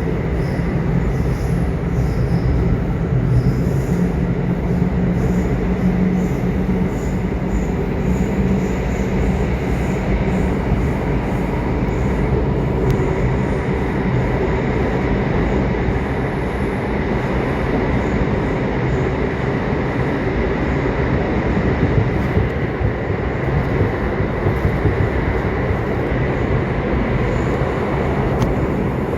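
Subway train running: a steady, loud rumble of wheels on rail, with a faint high whine above it.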